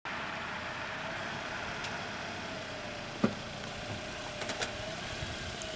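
Car engine idling steadily, with a few small clicks and one knock about three seconds in.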